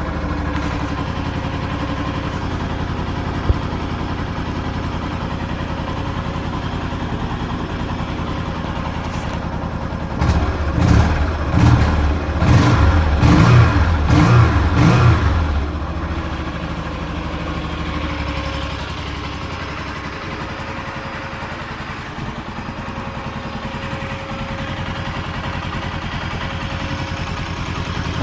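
Jianshe JS150-13 motorcycle's 150 cc engine idling, then revved with several short blips of the throttle for about five seconds, then settling back to a steady idle.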